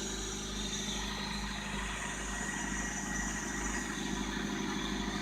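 1997 Honda Civic LX's four-cylinder engine idling steadily and quietly on a cold morning, shortly after a cold start.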